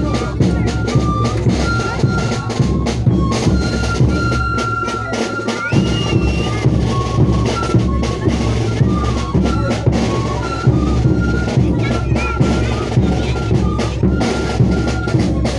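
Live band music with steady drumming and a high melody of held notes moving between a few pitches.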